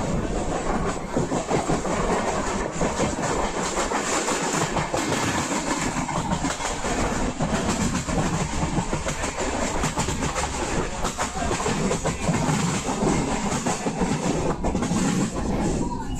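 Viswabharati Fast Passenger train running along the line: a steady rumble with a running clatter of wheel clicks over the rails.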